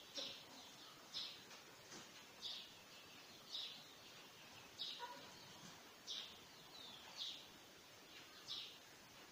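A bird chirping in the background: a short, high, falling chirp repeated about once a second, eight times, over faint hiss.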